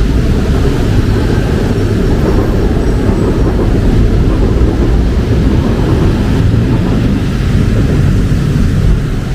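Steady low rumble of traffic on a wet city road, with a hiss of rain over it.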